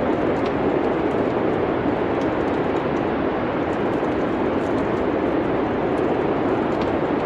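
Steady rushing wind with faint, scattered crackles from a wood fire.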